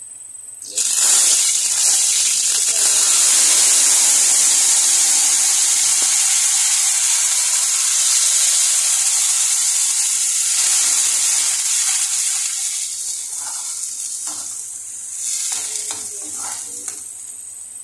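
Ground tomato, onion, ginger and garlic paste poured into hot oil in a kadhai, setting off a loud, sudden sizzle about a second in. The sizzle settles into steady frying that fades over the last few seconds, while a spatula stirs and knocks against the pan near the end.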